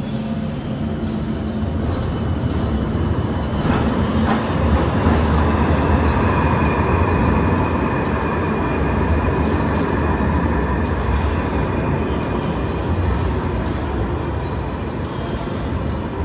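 Light rail tram running past, its rumble building to a peak a few seconds in and easing slightly, with a high steady whine through the middle.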